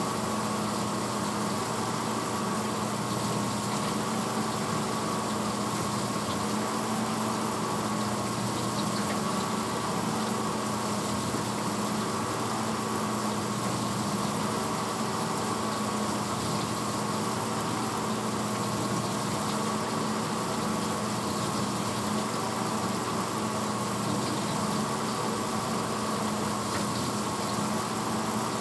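A 1986 Hotpoint Potwasher dishwasher running steadily mid-cycle: a constant motor hum with a slightly wavering whine, over the even rush of water circulating in the tub.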